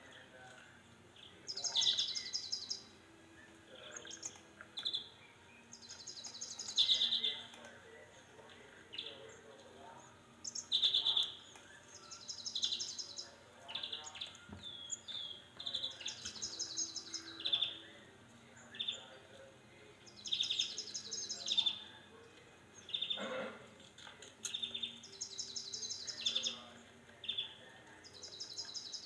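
Small songbird singing, repeating the same short phrase every couple of seconds: a fast, high trill followed by a few lower notes.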